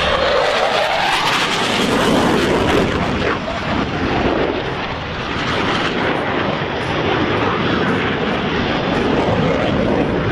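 Twin-engine F/A-18 Hornet jet fighter making a low attack pass, its engines a loud continuous roar whose pitch falls as it goes by.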